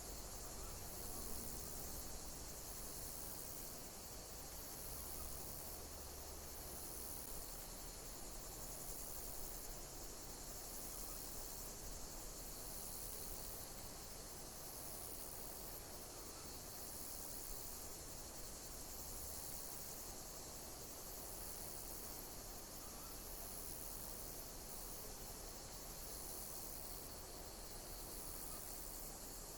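Insects chirping: faint, high-pitched calls repeating every second or two over a steady background hiss.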